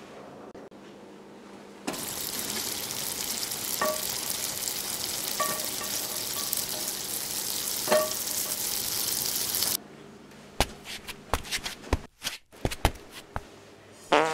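A frying pan sizzling loudly on the stove, with a few light metallic clinks, starting about two seconds in and cutting off suddenly near the ten-second mark. After it come a run of sharp knocks and clicks.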